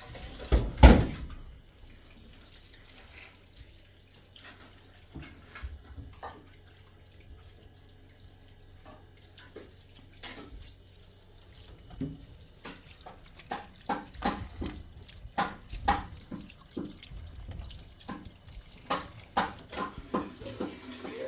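Water splashing and dripping in irregular bursts. There is a loud knock about a second in, and the splashes come thick and uneven in the second half.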